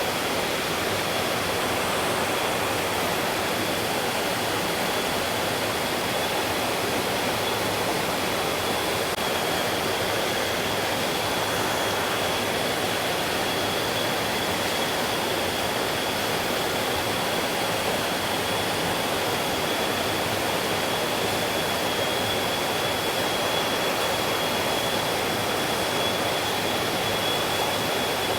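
Mountain stream flowing steadily, an even rushing hiss of water, with a thin steady high tone running through it.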